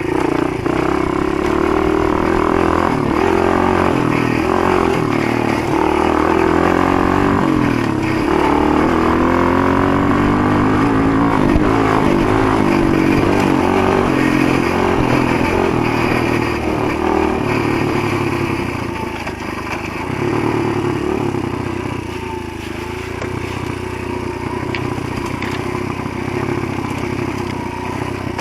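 Motoland GF125 pit bike's 125 cc single-cylinder engine running under way, its pitch rising and falling with the throttle. It eases off and runs a little quieter about two-thirds of the way through.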